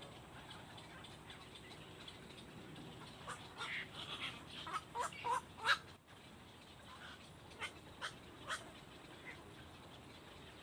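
A bird calling in short, sharp notes: a quick run of about ten calls, then three more spaced about half a second apart.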